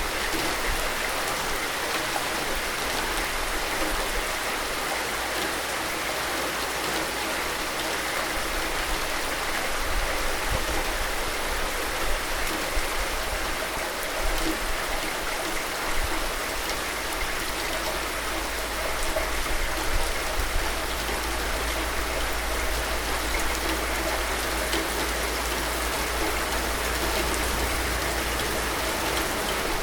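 Steady rain falling, an even continuous hiss with scattered individual drop hits.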